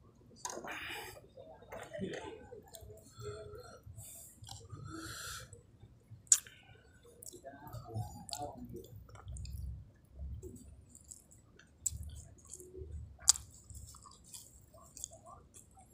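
A person chewing a mouthful of rice with side dishes close to the microphone: irregular wet mouth and lip sounds, broken by a few sharp clicks.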